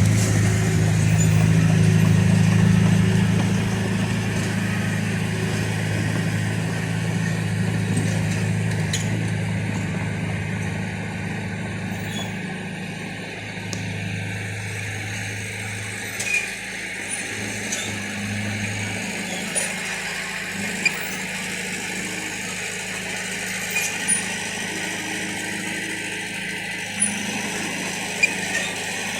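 Heavy machine's diesel engine running steadily, loudest at first and easing off over the first half. From about halfway on, a few short, sharp knocks stand out over it.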